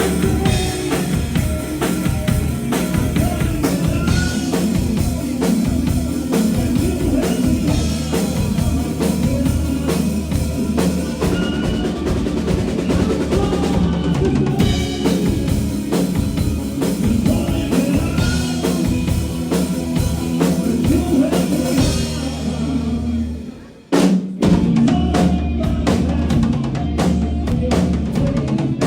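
Live rock band playing without vocals, drum kit loudest over bass and guitar. About 23 seconds in the music briefly fades and drops out, then the full band crashes back in.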